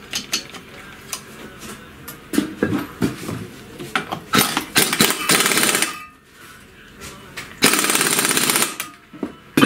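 Pneumatic impact wrench hammering in two bursts of about a second each, tightening the nut on a cultivator engine's flywheel and cooling fan, after a few light metal clinks of tools.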